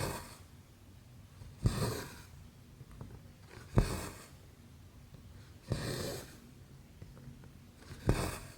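Needle and embroidery thread being pulled through cross stitch canvas, stitch after stitch: five strokes about two seconds apart, each a sharp tap followed by a short swish of thread drawn through the fabric.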